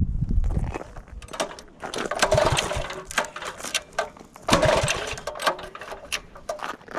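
Tillotson 212 single-cylinder engine on a mini bike running, its sound coming in irregular surges with many short sharp strokes.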